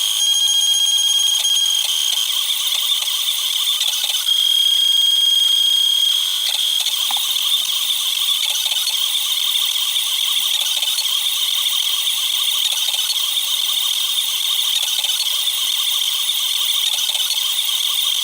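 Cubify Cube 3D printer running a print, played back ten times fast: its motors make a high-pitched whine and rapid rattle, with the pitch of the whine shifting a few times as the moves change.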